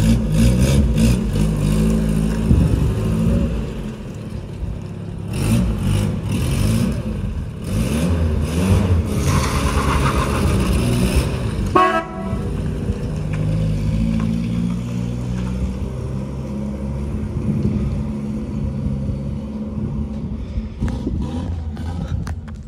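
Mazda 1800's four-cylinder engine revving up and down as the car pulls away and drives off, with a short sharp sound about halfway through.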